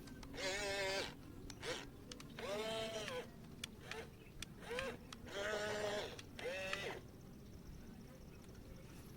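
Repeated animal bleating: about five calls, each under a second, with a wavering pitch, over a faint steady hum.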